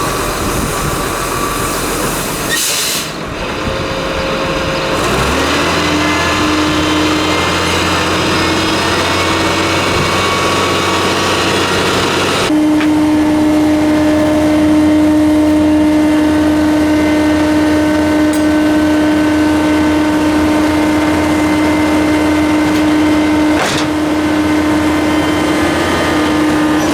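Ford L8000 garbage truck's diesel engine running with the steady whine of the Loadmaster packer's hydraulic pump. The whine settles in about five seconds in, then steps up and grows louder about twelve seconds in as the engine is brought up to working speed. There is a single sharp knock near the end.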